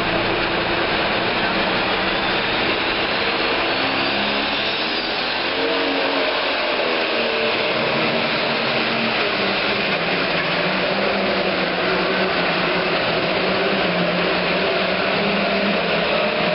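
Pro stock pulling tractor's turbocharged diesel engine running loud and hard. Its pitch rises, dips about six seconds in, then holds steady.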